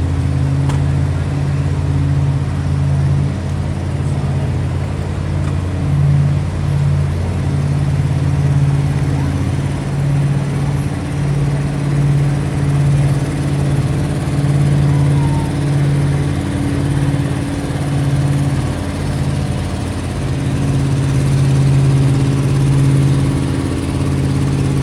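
Truck engines running at a steady speed, with a deep engine tone dropping out about ten seconds in while the others keep running.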